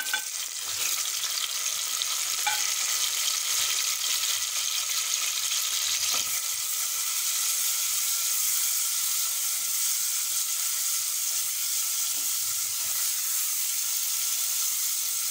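Chopped tomatoes frying in hot oil with onions and green chilli in a pressure cooker: a steady sizzle that swells about a second in as the tomatoes land in the oil, stirred with a spatula, with a few light knocks against the pot.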